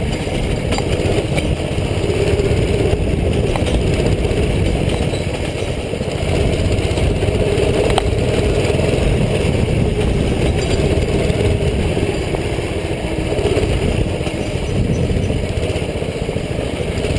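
Doodle Bug mini bike's small single-cylinder four-stroke engine running under way, its level swelling and easing a little with the throttle.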